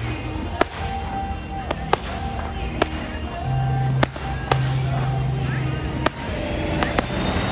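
Aerial fireworks shells bursting overhead, sharp bangs about once a second, with music playing underneath.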